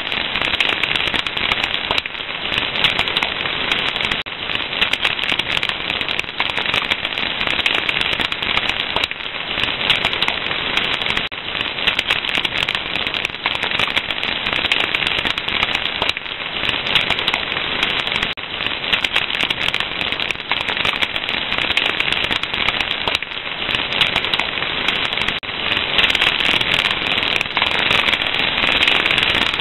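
A fire crackling steadily: a dense run of small pops and snaps over a hiss, a little louder near the end.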